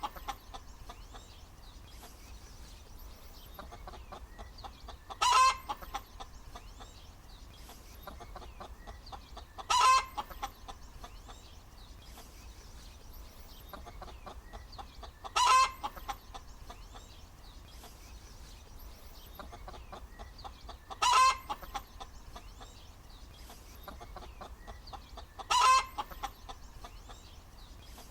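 A hen cackling: five loud, short calls come about every five seconds, with quieter clucking in between.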